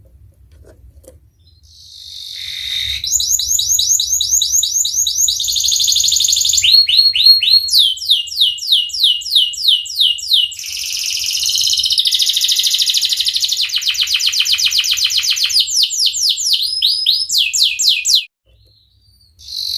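Domestic canary singing a long rolling song. Each phrase is a fast run of repeated downward-sweeping notes, and the bird switches to a new phrase every second or two. The song starts about two seconds in and breaks off suddenly near the end.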